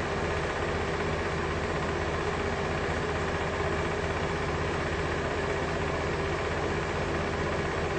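A steady, unchanging low hum with a hiss over it, like a motor or engine idling.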